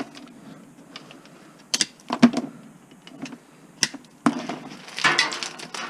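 Scrap copper wire being cut and handled by hand to strip it: a few sharp clicks and snaps, then a longer scraping rustle about four seconds in.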